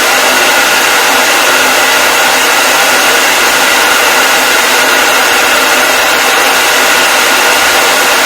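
Hair dryer running steadily: an even, constant rush of fan and airflow noise with a faint steady whine.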